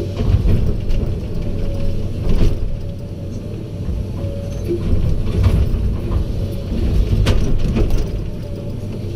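Heavy diesel machinery running steadily, with a few sharp metallic clanks about two and a half, five and a half and seven seconds in.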